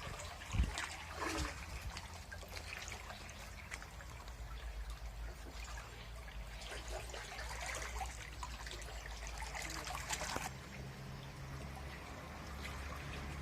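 Water trickling, with a low wind rumble on the microphone. The trickling stops abruptly about ten and a half seconds in.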